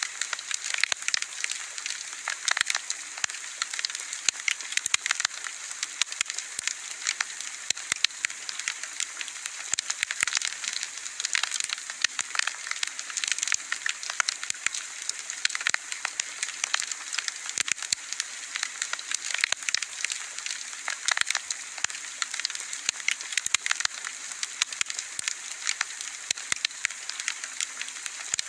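Wood bonfire burning with dense, constant crackling and popping over a steady hiss.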